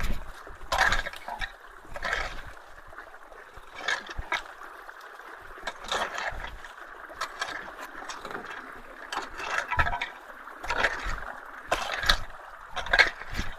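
Water running steadily through a culvert, with irregular splashes and knocks every second or two as brush and debris are moved in it.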